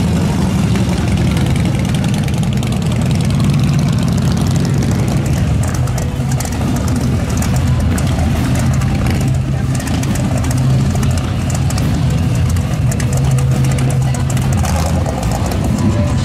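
Motorcycle engines running in steady street traffic, with a deep rumble throughout. Music with a heavy bass plays along with them.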